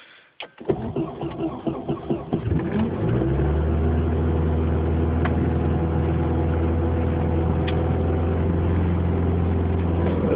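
1990 Volvo 760 Turbo's turbocharged four-cylinder engine cold-started in freezing weather: a click as the key turns, about two seconds of starter cranking, then it catches with a rise in pitch and settles into a steady idle.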